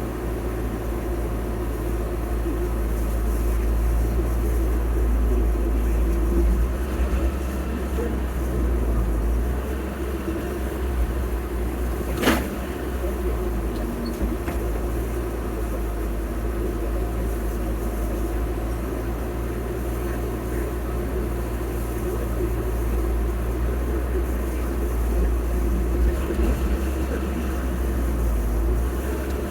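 Heavy earthmoving machinery's diesel engine running steadily with a low drone, with one sharp knock about twelve seconds in.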